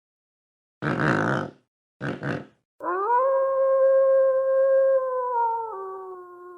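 A dog howling: after a harsh grunt-like call and two short ones, one long steady howl sets in about three seconds in, dropping in pitch and fading near the end.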